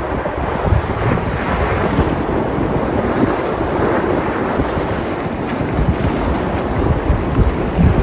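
Surf on the open sea, waves breaking in a steady wash, with low gusts of wind buffeting the microphone.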